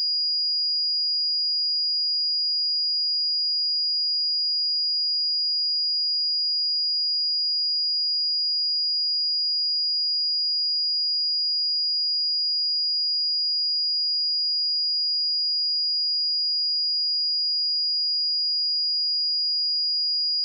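A steady 4871 Hz sine-wave test tone, one pure high-pitched tone held at a constant level, used for testing speakers and headphones.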